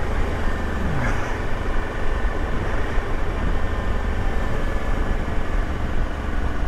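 Motorcycle running along the road, with a steady low engine rumble under a constant rush of wind noise.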